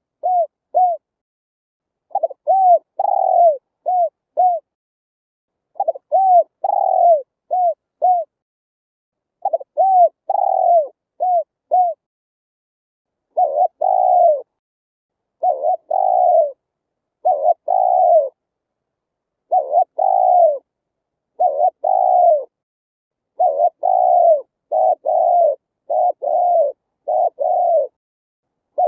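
Spotted dove cooing its song in short phrases of a few arched coos, with clean silences between. From about halfway, the coos come in quicker, denser groups.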